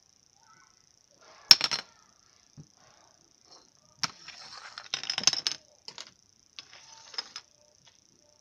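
Small toy bricks knocking and clattering against each other and the table as pieces of a stacked brick wall are pushed and pulled out. There is a sharp knock about a second and a half in, then short runs of rattling clatter later on.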